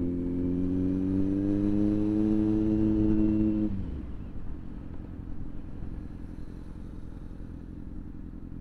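Motorcycle engine pulling under steady throttle, its note rising slowly. About four seconds in the throttle closes and it drops to a lower, uneven rumble.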